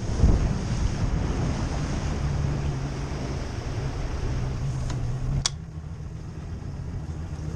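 Power boat's engine running with water rushing past and wind buffeting the microphone, under a steady low hum. About five and a half seconds in there is a sharp click and the sound drops abruptly to a quieter, steady engine drone.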